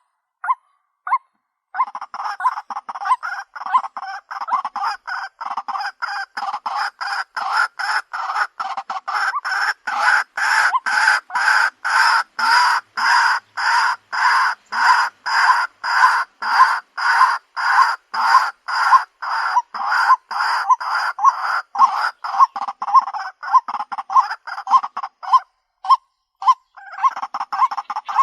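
Recorded calls of the white-breasted waterhen, played back as a bird lure: a long run of repeated, evenly spaced harsh notes, about two a second. A few scattered notes come first, and there is a short break near the end.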